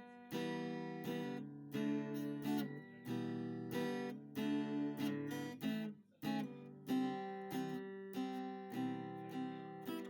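Background music: strummed acoustic guitar chords in a steady rhythm, with a brief pause about six seconds in.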